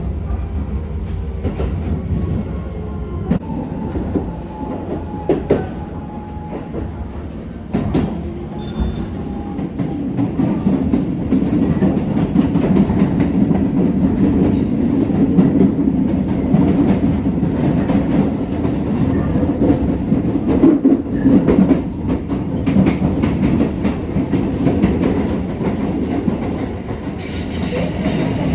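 Keisei 3000 series commuter train running on the line, heard inside the carriage: a steady rumble with the wheels clicking over rail joints, growing louder about a third of the way in.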